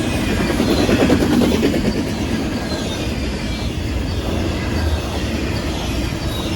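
A train rolling past, with a steady loud rumble of steel wheels on the rails.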